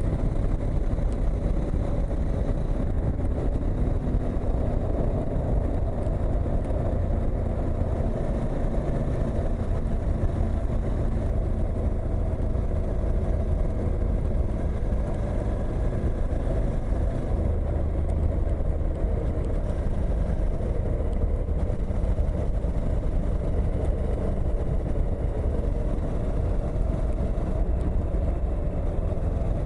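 Suzuki V-Strom motorcycle engine running steadily under way, over a continuous low rumble, with its note shifting slightly in pitch.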